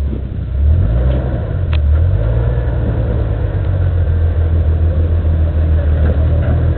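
Jeep Wrangler's engine running at low revs, a steady low rumble with slight rises in throttle as it crawls up a rock ledge.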